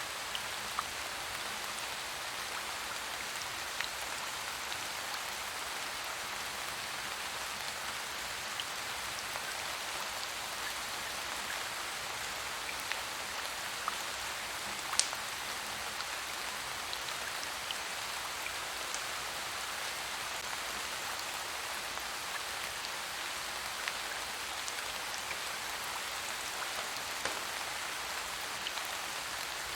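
Steady rain falling on surfaces, an even hiss of drops, with scattered sharp ticks and one louder tick about halfway through.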